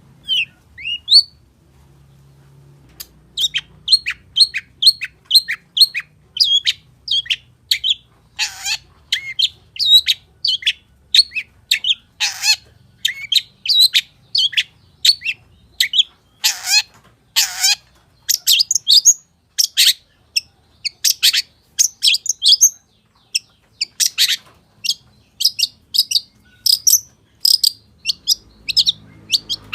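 Long-tailed shrike (cendet) in full song: a fast, near-continuous run of short, sharp chirps and whistles, several a second, packed with mimicked notes, with a few harsh rasping calls mixed in.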